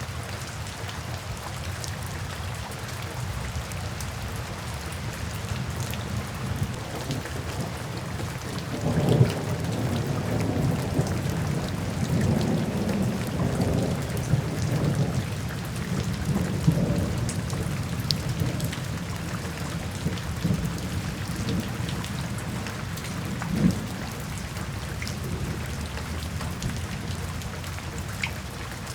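Steady rain falling, with a long roll of thunder that swells about a third of the way in, rumbles for some seconds with a sharp clap near the start, and fades away after a last crack later on.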